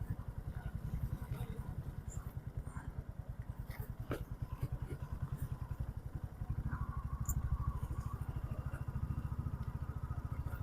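Motorcycle engine idling with an even, rapid low pulse, a little louder from about six and a half seconds in, when a faint steady whine joins it.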